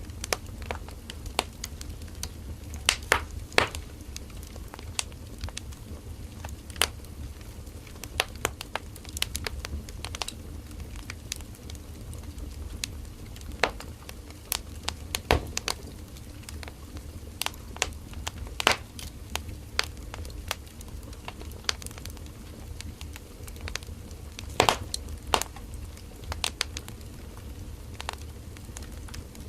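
Firewood burning in an open fire, crackling and popping at irregular intervals over a low steady rumble of flame, with a few louder pops scattered through.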